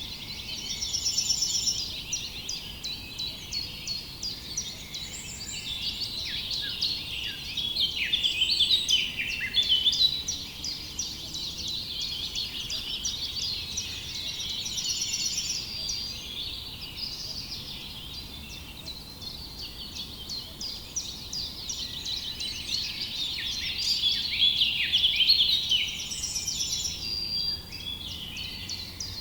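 Many small songbirds chirping and singing at once, a dense, continuous chorus of quick high chirps and trills that swells and fades by turns.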